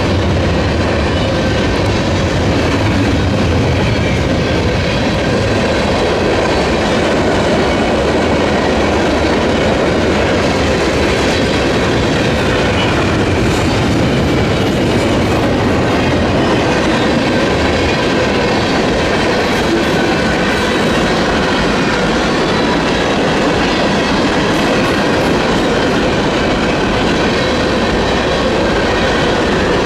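Freight train cars rolling steadily past a grade crossing, wheels clattering over the rails, with a deeper rumble in the first few seconds. The crossing's electronic bell keeps ringing over the train.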